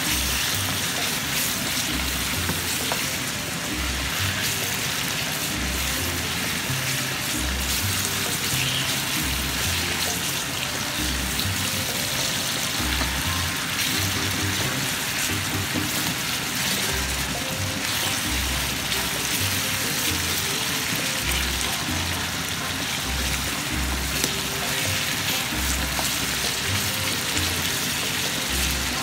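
Chicken liver and onions sizzling steadily in hot oil in a frying pan. Background music with a low, regular beat plays under it.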